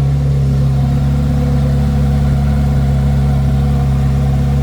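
2024 Corvette Z06's stock exhaust with its 5.5-litre flat-plane-crank V8 idling steadily at about 1,000 RPM soon after a cold start, heard close to the tailpipes, measured at about 90 decibels.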